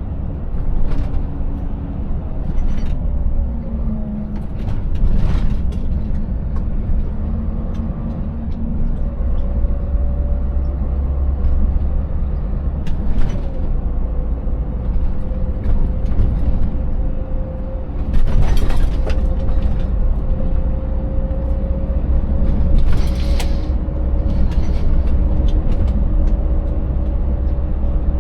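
Scania 590S V8 diesel truck engine running under way, a steady low rumble whose pitch shifts a few times as the revs change. Several brief sharp sounds break through, the loudest about two-thirds of the way in.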